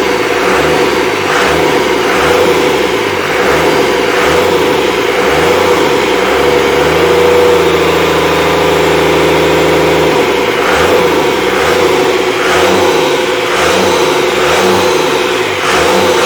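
Rebuilt Cummins 5.9L 12-valve inline-six diesel running on its first run after a complete rebuild, its speed wavering up and down. It holds steady for a few seconds around the middle before wavering again.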